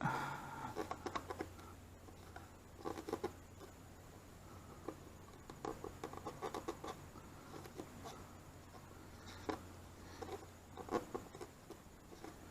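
Faint, scattered clicks and rustles of fingers handling small vinyl stickers and their paper backing and pressing them onto a plastic side panel, over a steady low hum.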